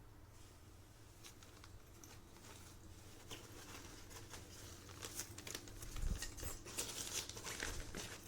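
Rustling and crinkling of a fabric travel backpack being handled, faint at first and growing into busier crackly rustles from about halfway.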